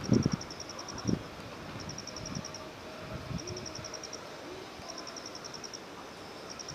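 An insect singing in high, rapid pulsed trills: bursts of about a second, roughly ten pulses each, repeating after short pauses. A couple of brief low bursts of noise come in the first second.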